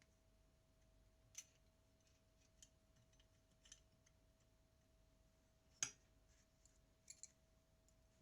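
Near silence broken by about six faint, sharp mechanical clicks at irregular intervals, the loudest just before six seconds in and two close together near the end, over a faint steady hum.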